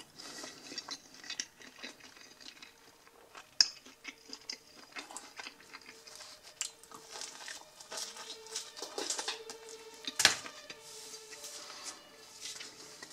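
A person chewing a mouthful of soft pan pizza crust, with small irregular mouth clicks throughout. There is a sharper click about three and a half seconds in and a louder knock about ten seconds in.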